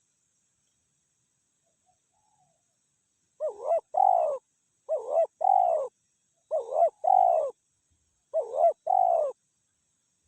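Spotted dove cooing: four phrases about a second and a half apart, each a short note followed by a longer coo.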